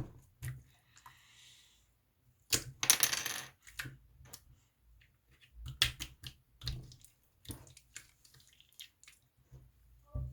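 Slime being squeezed and poked by hand, giving a series of sharp clicks and short wet crackles, with a denser, louder burst of crackling about three seconds in.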